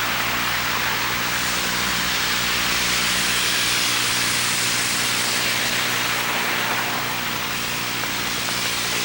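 Steady, loud rushing noise with no rise or fall, over a low electrical buzz from the Sony Hi8 Handycam's own recording.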